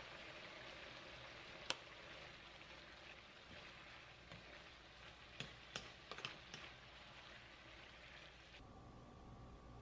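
Faint sizzling of a baby octopus and pork belly stir-fry frying in a pan. A wooden spatula clicks and knocks against the pan: once sharply a little under two seconds in, then several times in quick succession about halfway through. Near the end the sizzling cuts off abruptly, leaving a faint steady tone.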